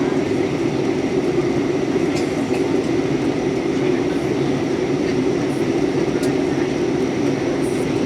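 Airliner cabin noise in flight: a steady rush of airflow and engine drone, strongest low down, with a faint steady high tone and a few light ticks.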